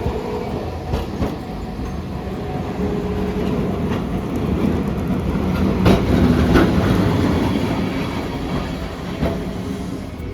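Hiroden streetcar running, a steady rail rumble with motor hum and several sharp clicks of the wheels over rail joints and points, the loudest about six seconds in.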